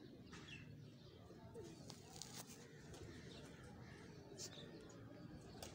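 Faint domestic pigeon cooing with a few soft clicks over a low background hiss.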